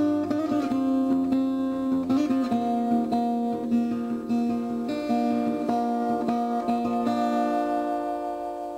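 Acoustic guitar music, notes plucked and left ringing, fading out near the end.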